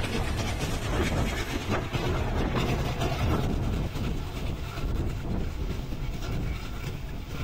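Train running at speed: a steady rumble with wheels clacking over the rail joints, a little quieter in the second half.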